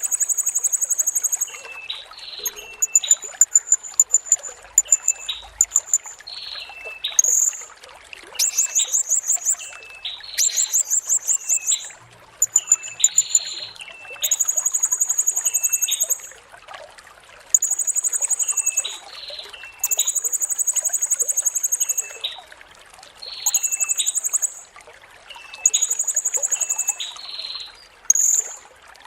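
Blue-crowned hanging parrot (serindit) singing: very high, rapid trills lasting a second or two, repeated every couple of seconds, with short lower notes between them. Underneath runs the steady trickle of running water.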